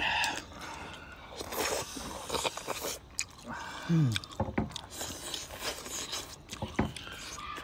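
Close-up eating sounds of people chewing spicy-sour squid: wet chewing and biting, with several sharp clicks. A short falling hum of a voice comes about four seconds in.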